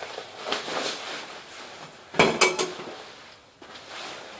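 Hard household objects being handled and set down: light knocking and rustling, then a sharp clatter with a brief ringing clink about two seconds in.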